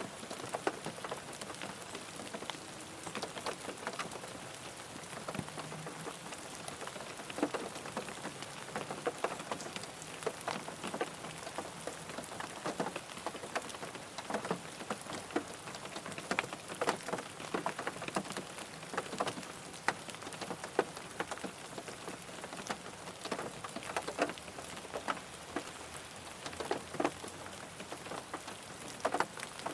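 Steady rain falling on a car, with a constant hiss and many separate drop impacts ticking irregularly on the body.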